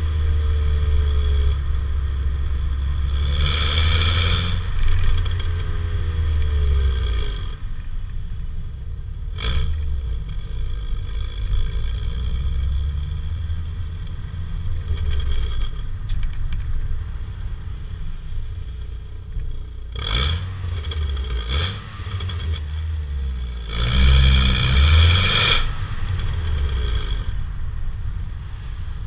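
Opel Vectra B 1.8 X18XE1 four-cylinder engine heard through a Novus aftermarket rear silencer, giving a deep, steady exhaust drone while the car drives. The exhaust gets louder twice, about three seconds in and again near the end, with a few sharp knocks or clicks in between.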